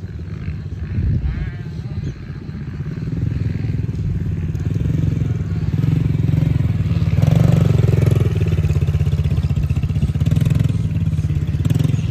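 Yamaha TT-R110 dirt bike's small four-stroke single-cylinder engine running, getting louder over the first several seconds and loudest about seven to eight seconds in.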